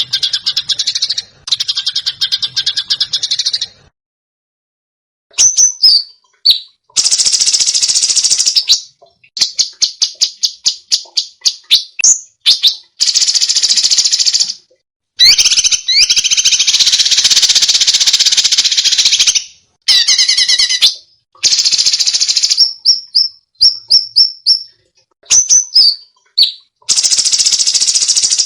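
Songbird song for training caged birds: loud, harsh, buzzy bursts several seconds long, alternating with rapid trills and short whistled notes, each phrase cut off abruptly by a silent gap.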